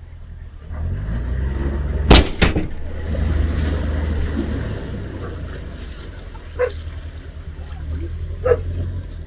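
Small boat in rough water: a steady low rumble with two loud sharp bangs about two seconds in, and two lighter knocks later.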